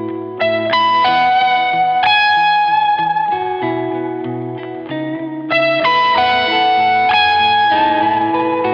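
PRS Modern Eagle III electric guitar played through an amp with effects, mostly clean: ringing chords with a single-note melody over them, the same phrase repeating about every five seconds.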